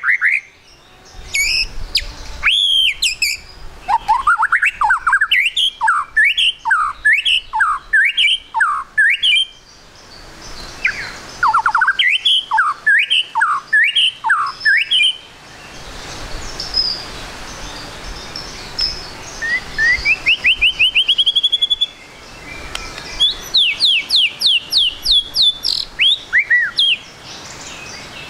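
White-rumped shama (murai batu) singing a loud, varied song: bursts of rapid, rising whistled notes repeated in quick series, broken by short pauses.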